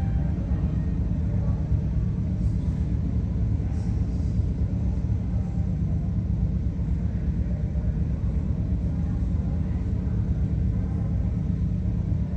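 The twin Pratt & Whitney R-1830 radial piston engines of a C-47 running steadily on a ground warm-up: a dense, even low rumble.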